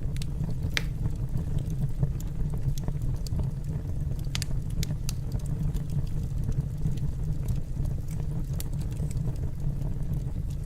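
Fire burning in a fireplace: a steady low rumble with scattered sharp crackles and pops, the loudest about a second in.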